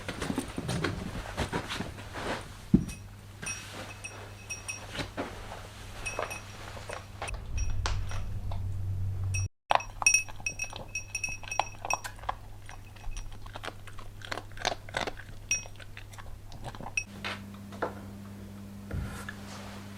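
Irregular small metal clinks, taps and light rattles of tools and parts being handled, some with short ringing pings, over a steady low hum; a second low hum joins near the end.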